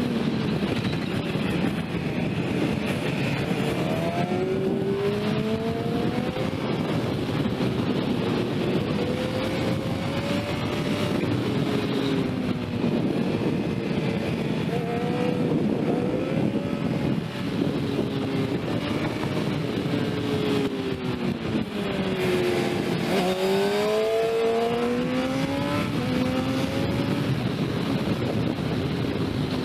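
Sport motorcycle engine being ridden hard, its pitch rising and falling over and over as it accelerates, shifts and slows, with a steady rush of wind noise. About two-thirds of the way through, the engine note drops and then climbs sharply.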